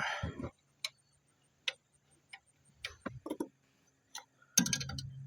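Scattered sharp metallic clicks and clinks of hand tools at work on the car, coming singly at irregular intervals. A steady low hum comes in near the end.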